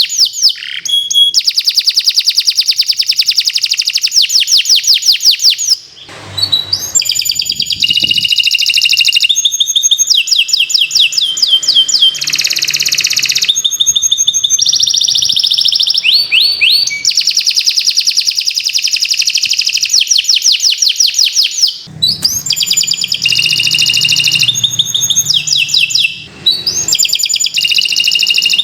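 Domestic canary singing a long continuous song of rapid trills and quickly repeated notes, switching from one trill to the next every second or two, with a few short breaks.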